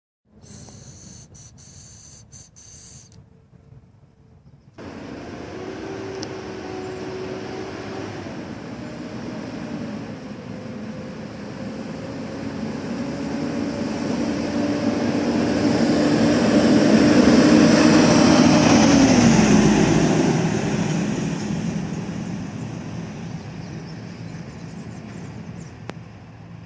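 Heavy trucks driving past on a street: engine noise jumps up about five seconds in, grows louder to a peak about two-thirds of the way through, then the engine note drops and fades away.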